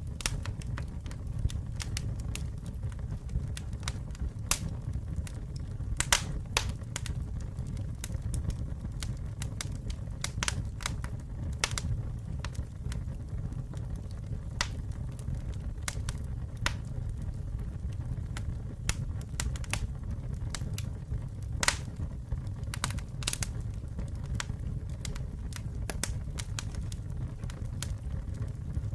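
Wood fire burning, with a steady low roar and irregular sharp crackles and pops several times a second.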